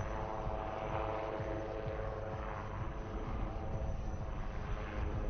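HAL Light Combat Helicopter flying low past in a display: the beat of the rotor and the whine of its turbine engines, heard as a set of steady tones over a low rumble, loudest about a second in.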